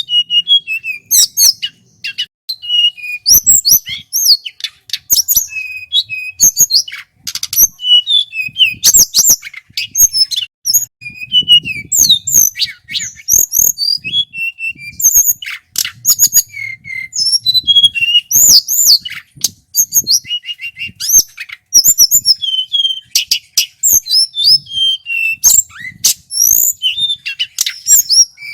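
Male tledekan gunung songbird singing a long, varied run of fast, high chirps, whistled glides and sharp clicking notes.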